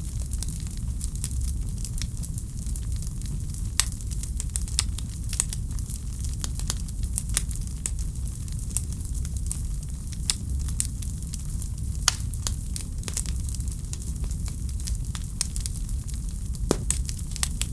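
Wood fire crackling in a fireplace: irregular sharp pops and snaps every second or so over a steady hiss and a low rumble.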